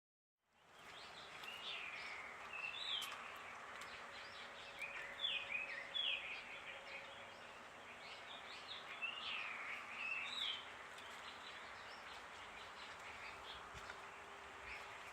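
Birds chirping in several bursts of quick, sweeping notes over a steady background hiss.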